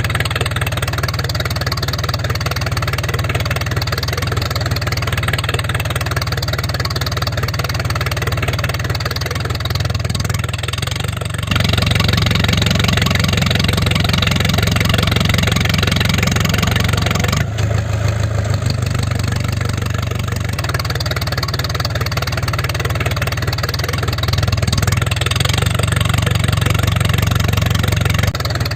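A DIY mini tractor running steadily with an engine-like hum. It gets louder for about six seconds from around 11 seconds in, then settles back.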